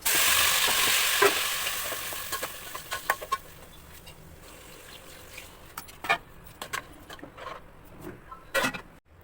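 Food sizzling in hot oil in a pan: the sizzle starts suddenly loud and dies down over about three seconds, followed by scattered clicks and scrapes of a utensil against the pan as it is stirred.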